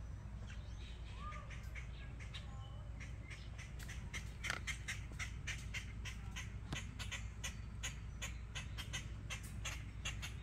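Birds scolding with sharp, repeated alarm calls, a few at first and then several a second from about four seconds in: the birds are upset at a cat close by. A steady low rumble runs underneath.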